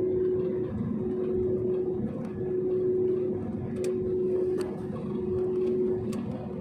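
Airliner cabin drone with the engines running before takeoff: a steady hum with a tone that swells and fades about every second and a half, and a few light clicks.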